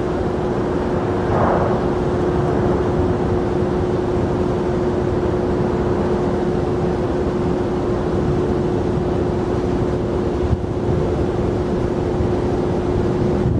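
Jet airliner engines running: a steady rumble with a constant hum that holds throughout.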